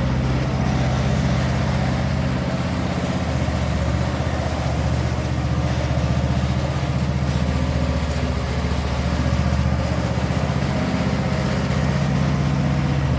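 An engine running steadily at an even speed, a constant low hum with no change in pitch or level.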